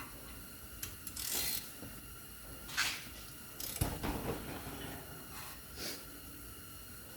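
Ratchet wrench with a T30 Torx bit turning on a brake rotor's retaining screw, clicking in a few short spells.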